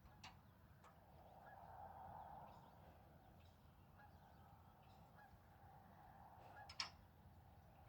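Near silence with faint distant fowl calls, and a sharp click near the end.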